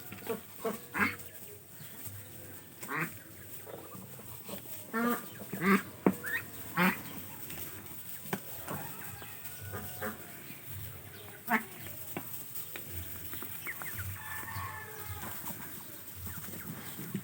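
Backyard poultry calling: a run of short pitched calls, thickest in the first seven seconds and loudest about six seconds in, thinning to a few scattered calls later.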